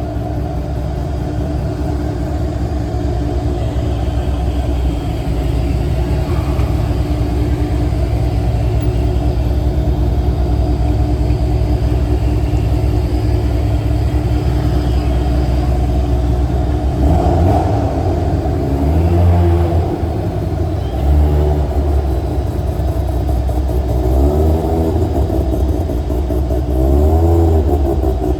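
Car engine running with a steady low rumble, then revved several times in the second half, its pitch rising and falling with each rev.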